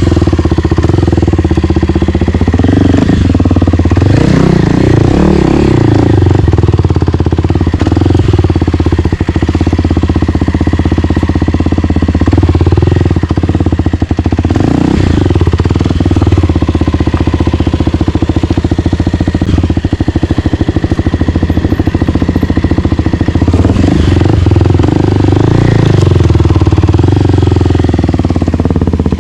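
Single-cylinder four-stroke dirt bike engine under way on a trail, the revs rising and falling repeatedly as the rider works the throttle and gears.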